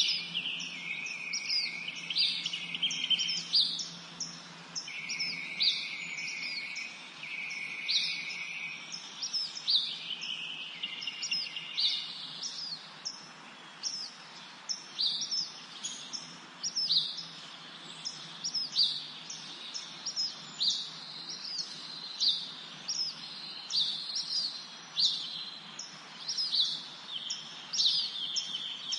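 Forest songbirds singing: a stream of short, high, falling chirps repeated throughout, with longer trilling phrases in the first part, over a steady background hiss.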